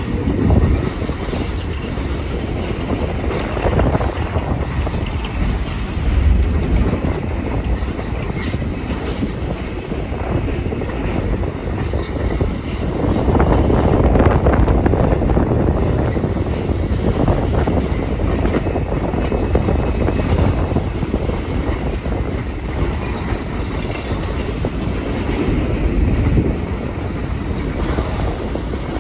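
A train rolling past, its steel wheels running on the rails in a continuous rumble that swells and eases every few seconds, loudest about halfway through.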